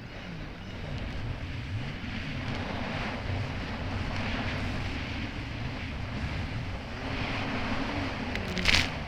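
Kawasaki Ultra 300X jet ski engine running hard, its pitch rising and falling again and again as the craft rides over choppy water, over a steady rush of water and wind. A brief louder burst comes near the end.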